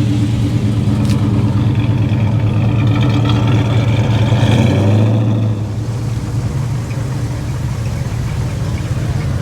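A car engine running steadily. Its note shifts and drops slightly about five and a half seconds in.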